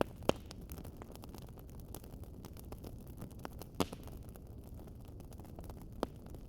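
Wood fire crackling steadily over a low rumble, with many small snaps and three louder pops spread through.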